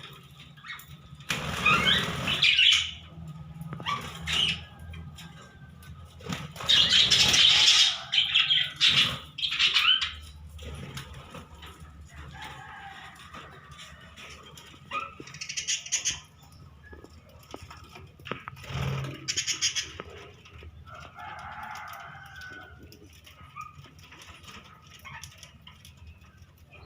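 Budgerigars flapping their wings in several short flurries, loudest about two seconds in and again around seven seconds in, with some bird calls later on.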